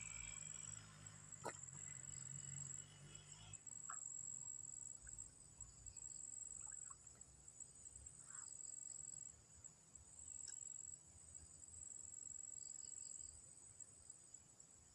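Faint, steady, high-pitched insect chirring, with a few soft clicks and a low hum in the first few seconds.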